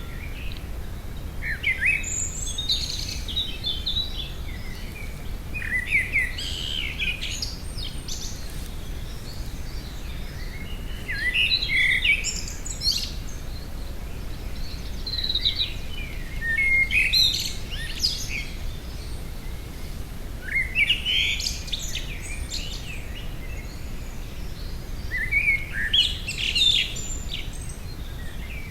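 A songbird singing six short, varied twittering phrases, each about two seconds long, spaced every four to five seconds, over a steady low background hum.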